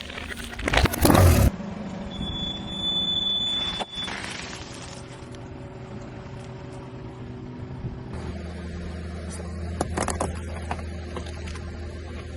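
A car's tyre rolling over and crushing objects: a loud crunching, cracking burst about a second in, then the engine running steadily, with a few more sharp cracks near the end.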